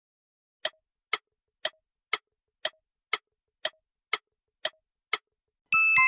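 Clock-ticking timer sound effect: ten even ticks, about two a second, then two bright chime strikes near the end marking the end of the countdown.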